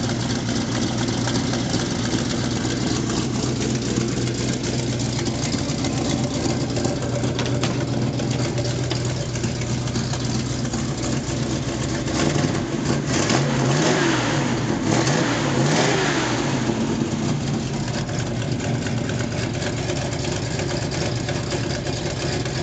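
Built 350 small-block V8 in a 1986 Chevy S10 idling, revved up and back down twice about halfway through, then settling back to idle.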